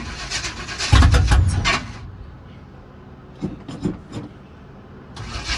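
Chevy C10 race truck's starter cranking the engine for about two seconds without it catching, a few clicks, then cranking again near the end. A battery that needs charging is behind the hard starting.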